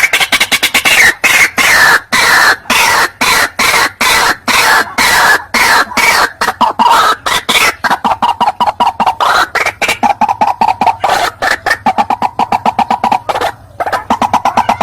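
White-breasted waterhen calling: a loud, rapid series of repeated harsh notes, several a second, with a short break near the end. This is a recorded lure call for drawing wild waterhens in.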